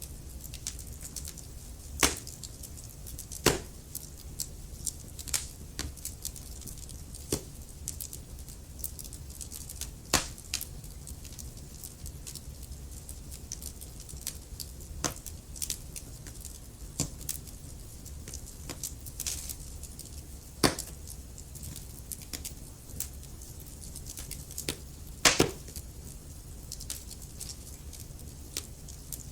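Wood fire crackling, with sharp pops at irregular intervals over a steady low rumble of burning. A few louder snaps stand out, about 2, 10 and 25 seconds in.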